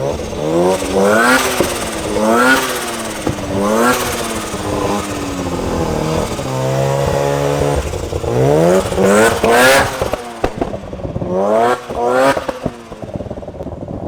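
A vehicle engine revved hard several times, each rev climbing quickly in pitch and dropping back, with one rev held steady near the middle and a couple of sharp pops between the later revs.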